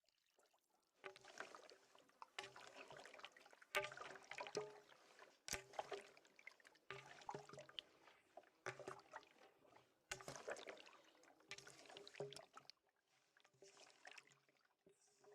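Faint kitchen food-preparation sounds: soft wet handling with irregular clicks and light knocks, starting about a second in.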